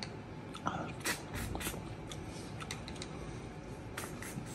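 Small clicks of snail shells knocking together as they are picked from a plate, and sucking at a shell to draw out the meat.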